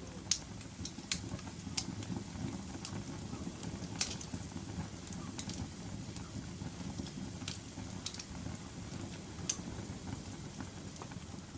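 Wood fire in a fireplace burning with a steady low rush of flame and irregular sharp crackles and pops, roughly one every second or so, the loudest about a third of a second in and at about four seconds.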